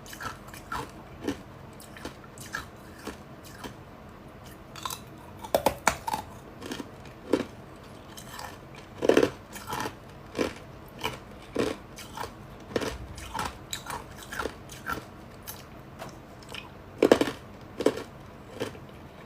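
Ice being bitten and chewed: a steady run of sharp crunches, roughly one to two a second, with a few louder bites.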